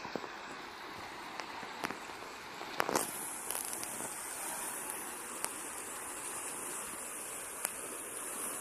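Steady rush of flowing floodwater, an even hiss with a few sharp clicks scattered through it.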